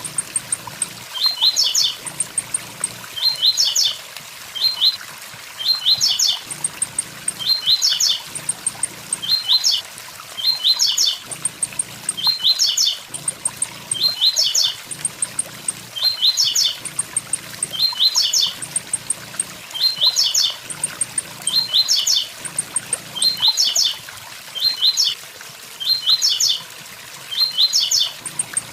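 Blue-black grassquit (tiziu) singing its 'tui tui zel zel' song: a short phrase of quick falling notes, repeated about every second or so. A waterfall rushes steadily beneath it.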